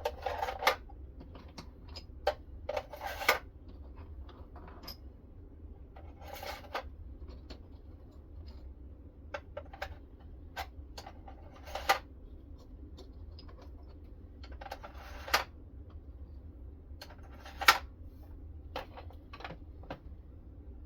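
Handling of a guided knife-sharpening system: scattered clicks and clacks with a few brief scraping strokes, spaced irregularly a few seconds apart.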